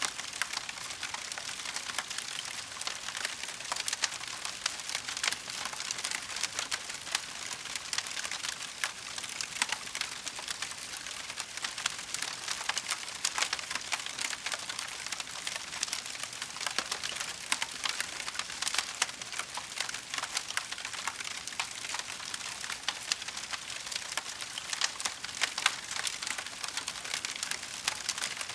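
Wood fire crackling steadily, with many small pops and snaps close together.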